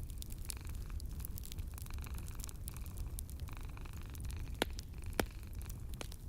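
Wood fire crackling in a fireplace: scattered sharp pops and snaps over a steady low rumble, with two louder pops about half a second apart in the second half.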